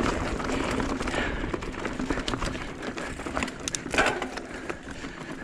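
Mountain bike rolling over a rocky trail: tyres crunching on rock and gravel, with scattered clicks and rattles from the bike and a sharper knock about four seconds in.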